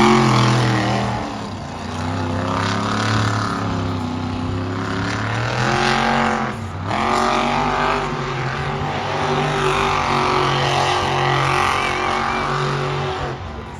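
Monster truck engine revving hard in repeated surges, its pitch climbing and falling as the throttle is worked, with a short dip about six and a half seconds in before it picks up again.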